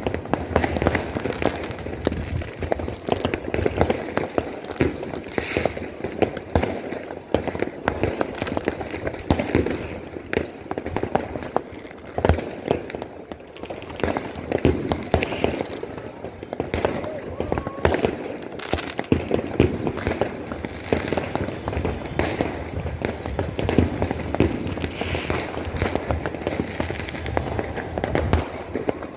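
Fireworks and firecrackers going off continuously, a dense run of overlapping bangs and crackles with no pause.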